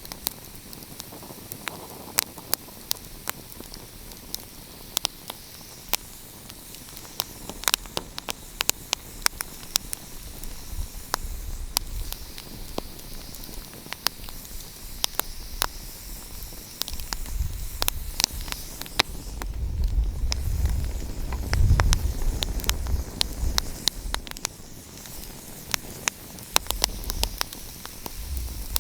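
Wood fire crackling: frequent sharp pops and snaps over a steady hiss, with a low rumble swelling and fading about two-thirds of the way through.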